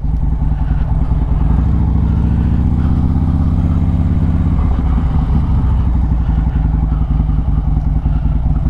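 Harley-Davidson Road Glide Special's V-twin engine running as the motorcycle rolls along at low speed. The engine note rises a little about three seconds in, then holds steady.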